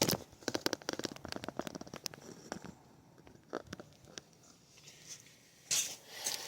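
A quick run of light clicks and taps for about the first two and a half seconds, then a few scattered ones, and a short scraping rustle near the end: the knife and the things around it being handled as the tip test is set up.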